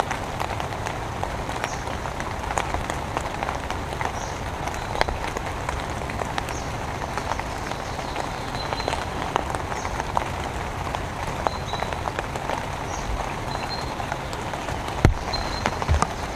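Steady rain with dense raindrop ticks and taps close to the microphone. Short, faint high chirps come every second or two, and a couple of heavy drop thumps are heard near the end.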